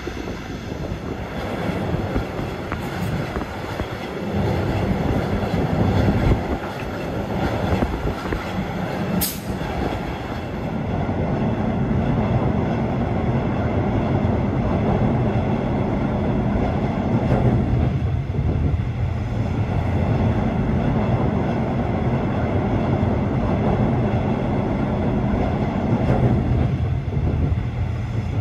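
A passenger train running along the rails with a steady rolling rumble, and a single sharp click about nine seconds in.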